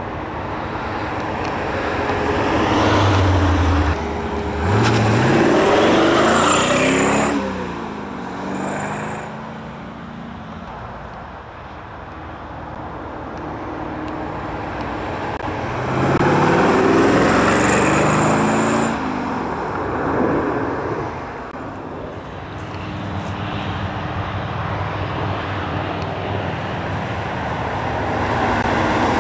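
Maserati Khamsin's V8 engine driving past twice, each time swelling as it comes near and falling in pitch as it moves away. It rises once more near the end as the car comes back.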